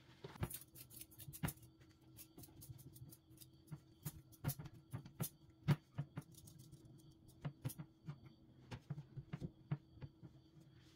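Irregular light clicks and taps, several a second, as of small household items being handled and set down, over a faint steady hum.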